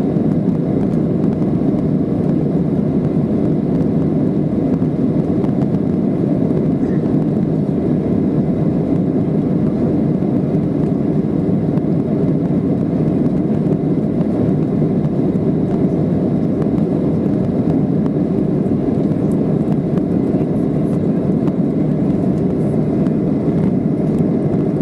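Boeing 737-500 with CFM56-3 turbofans during takeoff: a steady, even rush of engine and airflow noise, deep and unchanging throughout.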